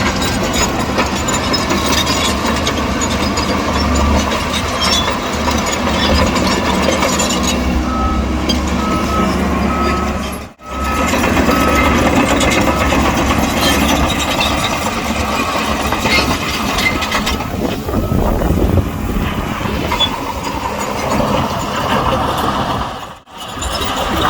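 Heavy earthmoving machinery, a bulldozer and dump trucks, running steadily. A reversing alarm beeps about twice a second for several seconds near the middle. The sound drops out briefly twice.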